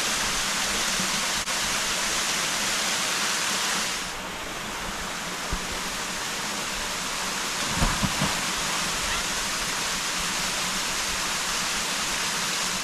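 Waterfall rushing: a steady, dense noise of falling water, turning a little softer and duller from about four seconds in, with a few low thumps near eight seconds.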